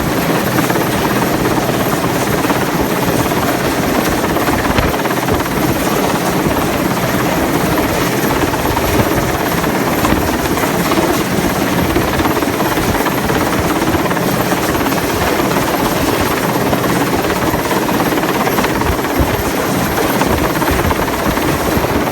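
Helicopter running loudly and steadily, its rotor and engine noise filling the whole stretch without letting up.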